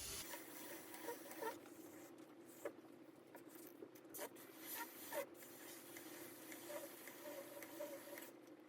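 Faint scratching and light ticks of a sharp trimming tool shaving firm ES10 clay from the side of a large bowl turning on a potter's wheel, over a faint steady hum.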